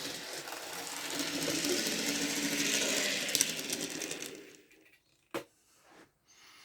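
N gauge model train running, its small motor buzzing and wheels rattling on the track, growing louder and then fading away about four and a half seconds in. A single sharp click follows about a second later.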